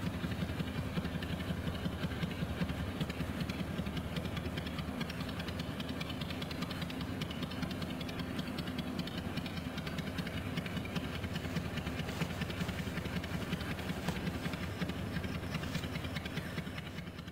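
Random orbital sander running steadily, its pad buffing rust off pitted chrome with a thick polishing paste.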